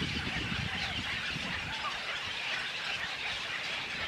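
Many small birds chirping at once: a dense, steady chorus of short high calls.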